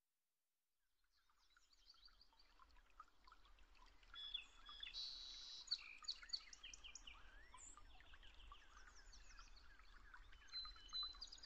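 Faint chorus of small birds chirping and twittering, many short calls and quick pitch glides, fading in after about a second of silence.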